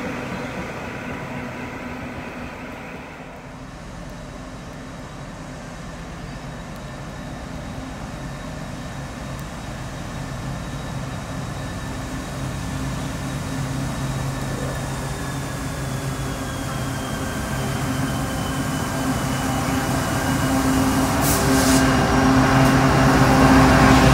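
A passenger train dies away over the first few seconds. Then a diesel-electric XRN-class freight locomotive (XRN 008) hauling its train approaches, its engine hum growing steadily louder until it passes close by at the end.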